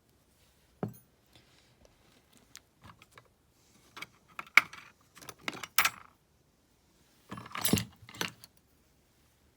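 Small metal lock parts clicking and clinking as they are handled: the pins and plug of a pulled-apart deadbolt cylinder. Scattered light ticks give way to a run of sharp clicks about four seconds in and a longer metallic clatter near the end.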